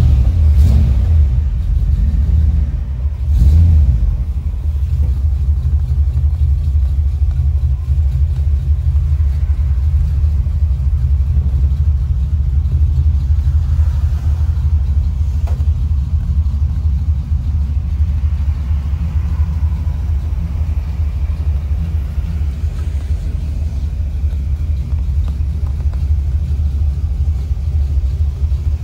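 Ford F100 panel truck's 327 V8 running just after starting: revved briefly twice in the first four seconds, then idling with a steady low rumble.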